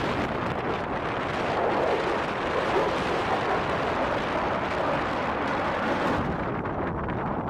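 F-35A Lightning II's jet engine running loud in a flypast, a steady noisy rush that swells slightly a couple of seconds in and loses its top end about six seconds in.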